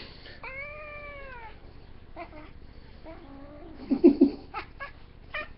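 Domestic cat meowing: one drawn-out meow about half a second in that rises and then falls in pitch. Several shorter, fainter sounds follow, with a brief louder one near four seconds in.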